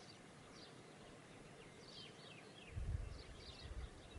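Faint birds chirping, a scatter of short falling chirps. About three seconds in, a low rumble sets in under them.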